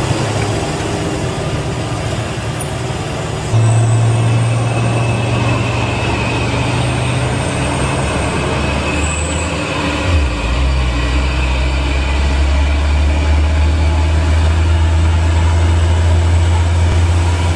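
Heavy truck's diesel engine pulling hard up a steep climb, a steady low drone that jumps abruptly in level about three and a half seconds in and changes again around ten seconds in.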